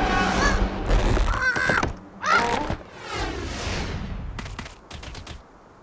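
Animated-cartoon sound effects: a quick run of impacts and swooshing sweeps over fading music. They thin out after about two seconds and end in a few sharp clicks.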